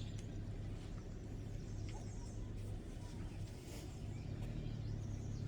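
Outdoor ambience with faint, scattered bird chirps over a steady low hum.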